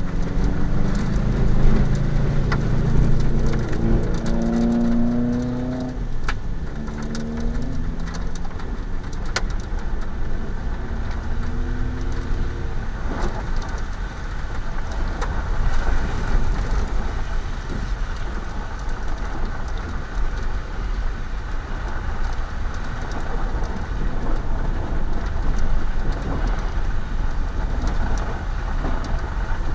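Car engine accelerating, its pitch rising in several steps as it goes up through the gears, over road, wind and rain noise. After about thirteen seconds the engine fades into a steady rush of rain and wind.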